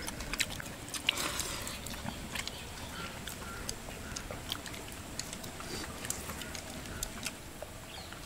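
People eating: chewing with small, scattered mouth clicks and smacks as mutton and bone soup are eaten.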